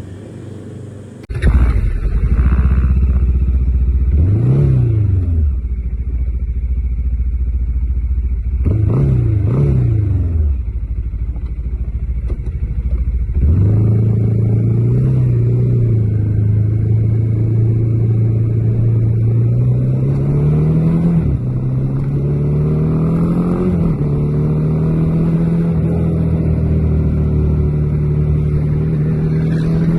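Bajaj Dominar 400's single-cylinder engine idling, blipped once a few seconds in and twice near ten seconds, then pulling away: the note settles higher and climbs in steps as the bike shifts up through the gears.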